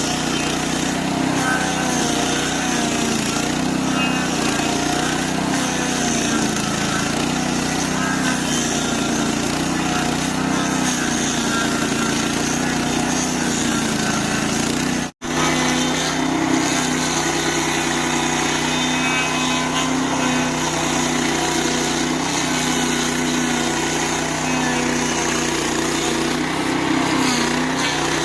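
Stump grinder's 8 hp engine running steadily under load, its pitch dipping and recovering as the toothed cutting wheel bites into the stump. Sound drops out for a moment about halfway through.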